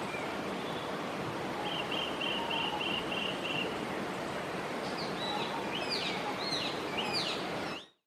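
Wild birds calling over a steady outdoor hiss: a quick run of about seven short repeated notes, then several slurred whistled notes. The sound fades out just before the end.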